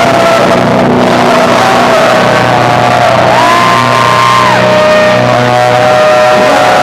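Live rock band playing loud electric guitar, bass and drums, with long held notes that bend up and back down in the middle. The recording is overloaded and distorted, with poor sound.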